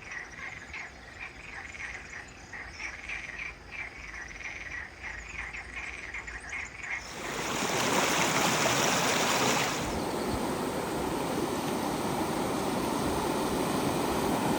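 A chorus of frogs calling in quick repeated pulses, then about halfway through an abrupt change to the steady rush of flowing water, which eases a little a few seconds later.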